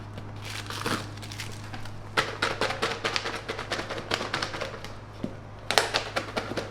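Packaging being handled: quick crinkles and small taps, growing busier about two seconds in and again near the end, over a steady low hum.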